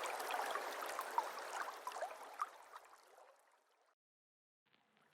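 Small aquaterrarium waterfall trickling and splashing, with many little droplet splashes. It fades away about three seconds in to silence, and faint water sound returns near the end.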